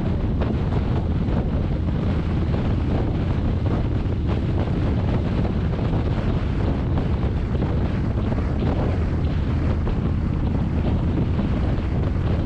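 Steady wind rush buffeting the microphone of a moving motorcycle, with the motorcycle's engine running beneath it.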